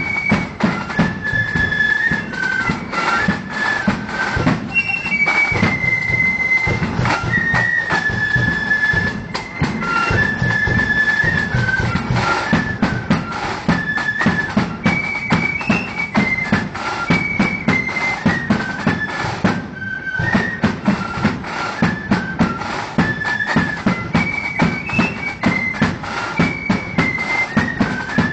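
Marching flute band playing a tune: a high flute melody over a steady beat of drums.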